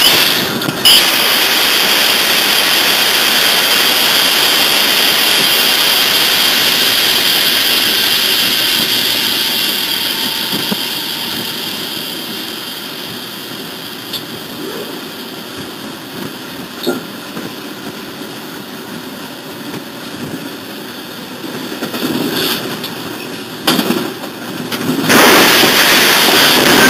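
Steady rushing noise of a moving locomotive heard from its cab, growing gradually quieter through the middle, with a few sharp knocks. Near the end comes a loud crash as the train collides head-on with another train on the same track.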